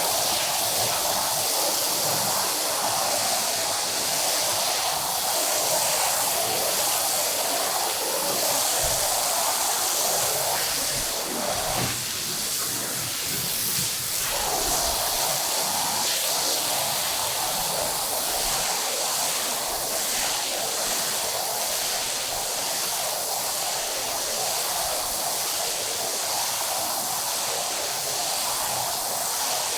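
A steady hissing rush of water from carpet washing. Partway through, the lower part of the rush drops away for a couple of seconds, then comes back.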